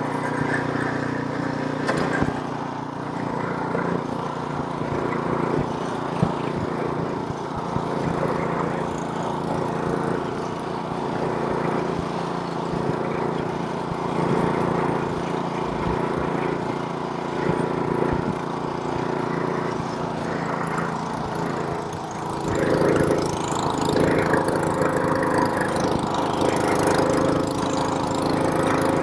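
Gas snowblower's small engine running steadily under load, clearing snow; it grows louder and rougher about three quarters of the way through.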